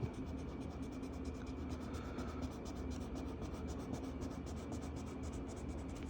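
Marker scribbling on paper in quick, even back-and-forth strokes, about seven a second, as an area of a colouring page is filled in.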